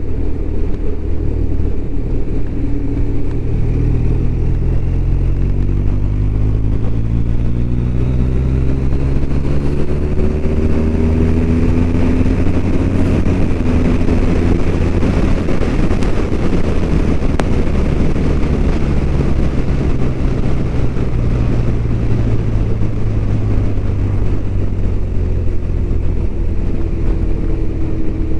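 BMW R1200RT's boxer-twin engine running under way, its pitch climbing steadily for about ten seconds as the bike accelerates, then settling and easing lower near the end.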